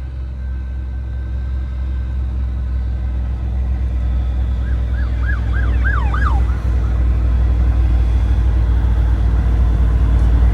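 Semi truck's engine and road noise, a heavy low rumble growing steadily louder, with a short siren yelp of about six quick rising-and-falling chirps about halfway through.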